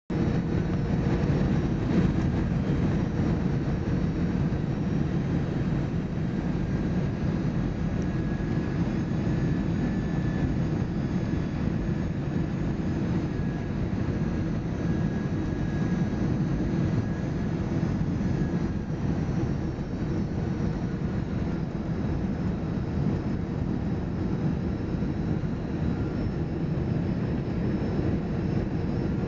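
Cabin noise inside an Airbus A319 in flight: the engines and rushing air make a steady low rumble, with a faint whine in the middle.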